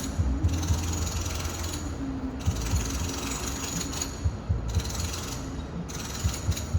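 Home renovation work heard from a distant room: a tool runs in stretches of one to two seconds with short breaks, over a low hum and scattered knocks.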